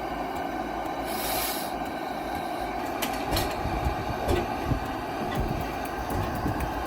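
An engine running steadily, with a brief hiss about a second in and scattered sharp clicks and knocks in the second half.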